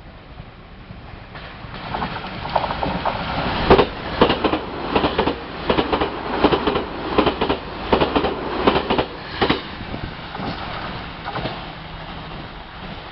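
A train passing through the station, its wheels clicking in quick groups over the rail joints. The sound builds up, is loudest through the middle and eases off near the end.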